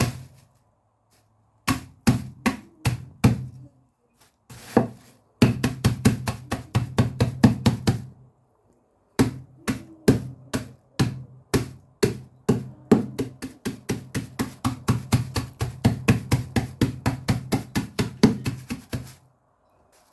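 Biscuits in a tied bag being pounded to crumbs: quick, hard knocks several a second, in runs broken by short pauses, stopping near the end.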